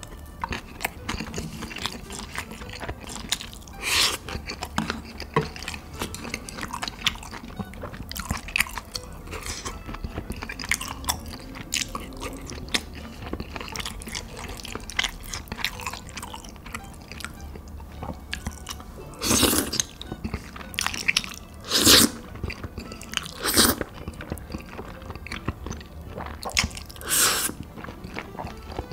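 Close-miked eating: steady chewing and biting with wet mouth noises, and a few louder bites or crunches scattered through.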